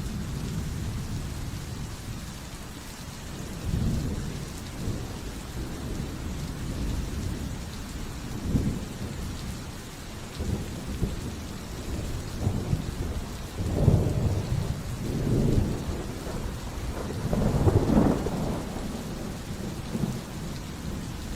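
Steady rain falling with rolling thunder: several low rumbles swell and fade, the loudest about two-thirds of the way through and again near the end.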